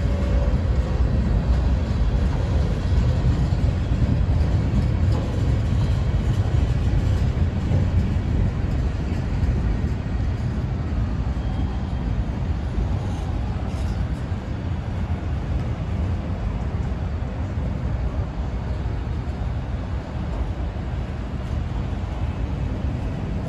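Freight train rolling past on the tracks: a steady low rumble of wheels on rail that eases off somewhat over the second half.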